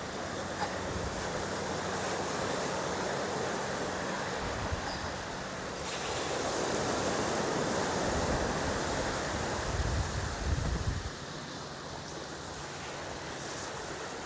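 Sea surf washing onto a beach, with wind blowing across the microphone. The surf swells about six seconds in, and low wind rumbles on the microphone come and go over the next few seconds before easing off.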